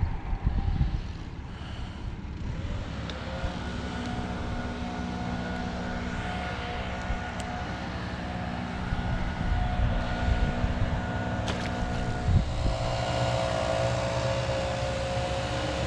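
An engine droning steadily, a pitched hum that comes in a few seconds in and shifts in pitch about twelve seconds in.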